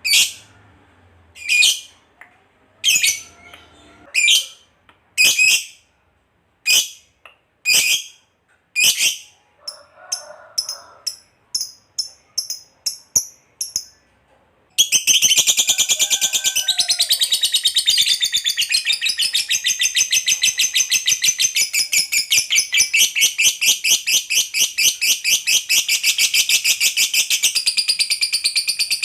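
Lovebird calling: single sharp shrill calls about a second apart, then quicker short chirps, then about fifteen seconds in breaking into a long unbroken rapid chattering trill, the 'ngekek panjang' (long chatter) that keepers prize in a singing lovebird.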